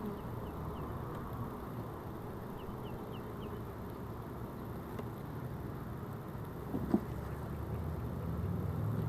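Honeybees buzzing steadily around an open hive, with one sharp knock about seven seconds in.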